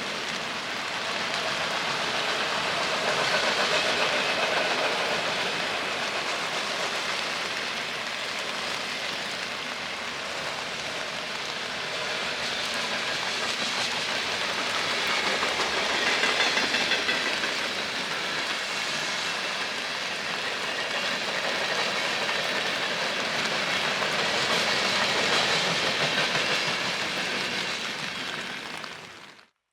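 A train's railroad cars rolling past with steady wheel-on-rail noise and clickety-clack, swelling and fading, then cut off suddenly near the end.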